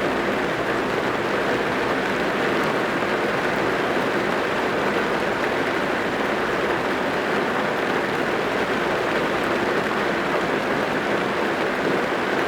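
Rain drumming steadily on a car's roof and windows, heard from inside the car.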